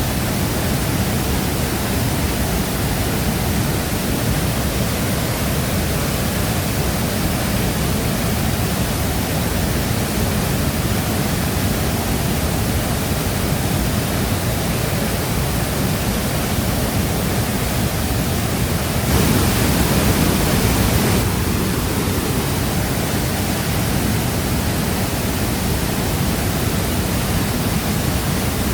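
Waterfall plunging steadily, a dense, even rushing of falling water, which swells louder for about two seconds roughly two-thirds of the way through.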